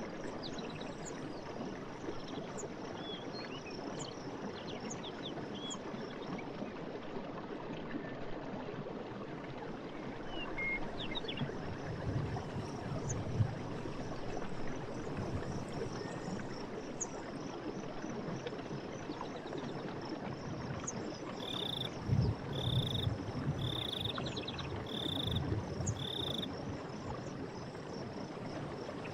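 Night forest ambience: frogs croaking over a steady rush of running water, with faint scattered chirps. In the second half one frog gives a run of five short rattling calls, about one a second.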